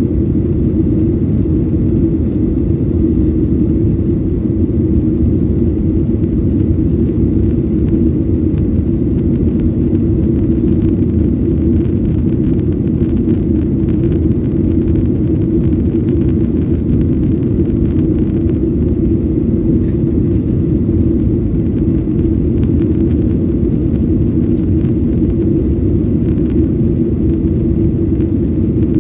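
Steady, loud rumble inside the cabin of a Boeing 737-800, from its CFM56 jet engines and airflow. A deep drone with a stronger hum in the low-mid range that does not change.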